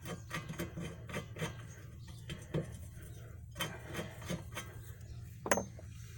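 Hand tools working a rear air-shock mounting bolt out of its mount, with irregular metal scraping and clicking from a bolt hot with thread friction. One sharper metallic clink rings briefly near the end.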